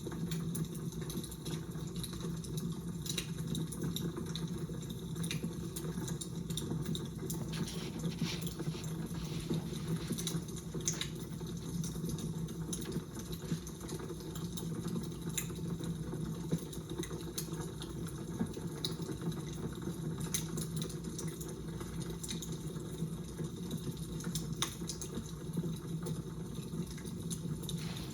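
Fire crackling, with frequent irregular pops and snaps over a steady low rumble.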